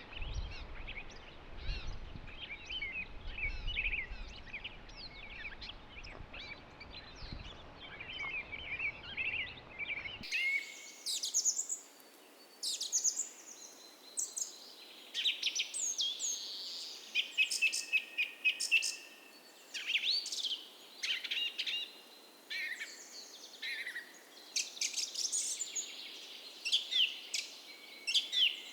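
Dawn chorus of many songbirds, overlapping chirps, trills and short whistles. For about the first ten seconds it sounds denser and more distant, over a low rumble. Then it changes abruptly to clearer, louder songs with higher notes.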